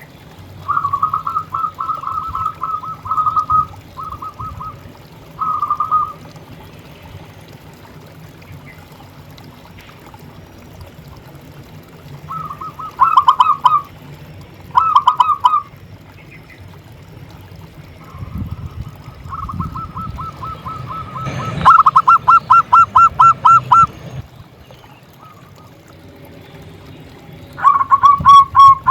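Zebra dove (perkutut) singing: phrases of quick, stuttering cooing notes, repeated several times with pauses between. One long phrase comes in the second half.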